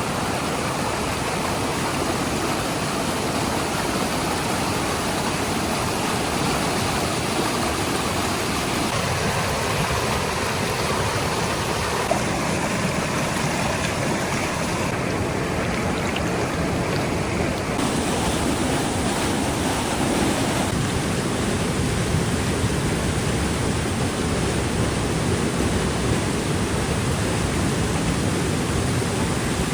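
A rain-swollen mountain stream in flood, its fast water rushing in a loud, steady wash.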